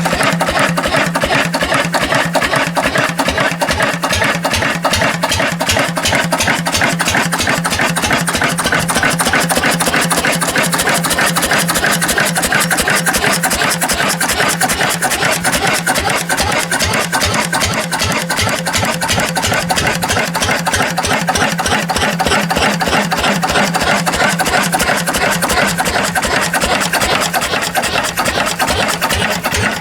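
Lister CS stationary diesel engine running steadily after its first startup since restoration, with an even, rapid beat.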